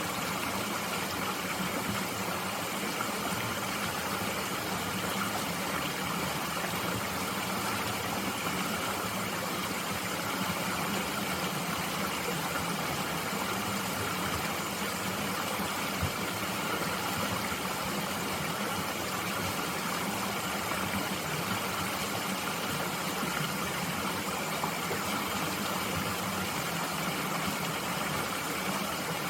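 Mountain stream flowing steadily, an even rushing of water with no change in level, and a single faint click about halfway through.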